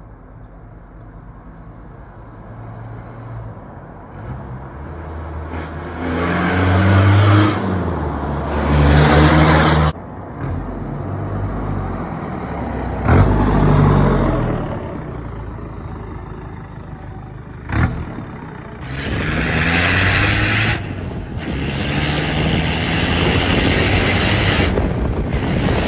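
Mazda Bounty's WLT 2.5-litre turbo diesel running through a newly fabricated 3-inch side-exit exhaust, revved up several times, its pitch climbing and dropping back between surges.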